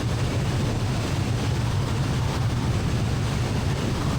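Light airplane's piston engine and propeller droning steadily in the cockpit during a landing approach.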